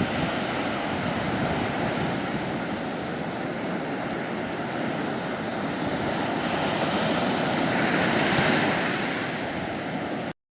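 Sea waves breaking and washing up on a beach, a steady surf rush that swells to a peak about eight seconds in, then cuts off abruptly just before the end.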